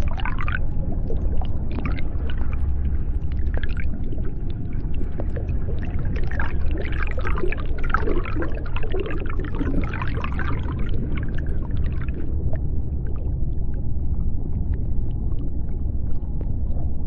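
Underwater sea ambience: a steady deep rumble with scattered higher, wavering creaks and calls over it, busiest in the middle and thinning out after about twelve seconds.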